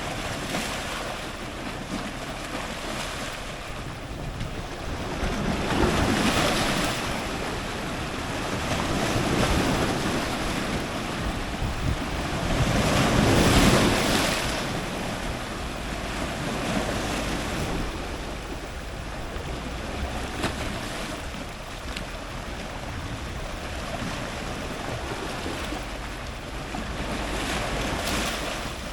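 Powerful ocean surf breaking on rocks, a continuous wash of water with several waves swelling and crashing in turn, the loudest about halfway through.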